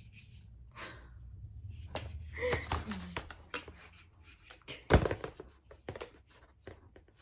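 Handling noise of plastic hair-dryer attachments: a series of small clicks and knocks, with one sharp knock about five seconds in.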